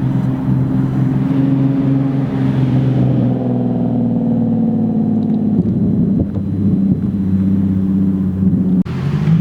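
Nissan 370Z's V6 engine running through a Z1 Motorsports single-exit race exhaust with test pipes in place of the catalytic converters. The exhaust note rises a little in pitch in the middle and then settles. There is a sudden break near the end.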